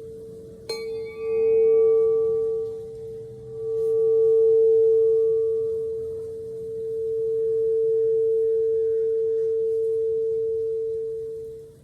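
Crystal singing bowl struck once about a second in, briefly ringing with higher overtones. It then holds a single pure, steady tone that swells and fades in slow waves, dropping sharply in level near the end.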